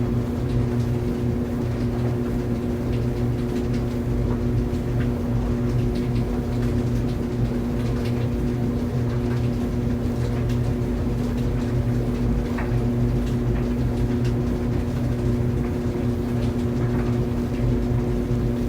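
Laundry tumble dryer running: a steady, even hum with a few low steady tones and faint, irregular ticks scattered through it.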